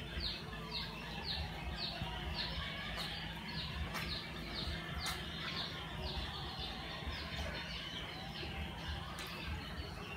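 A bird calling a long, even series of short falling notes, about three a second, over a steady low rumble.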